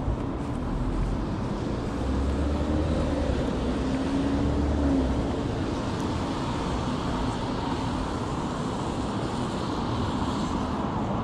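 City street traffic: a passing vehicle's engine hum and low rumble swell about two seconds in, rise slightly in pitch and drop away about five seconds in, over a steady wash of traffic noise.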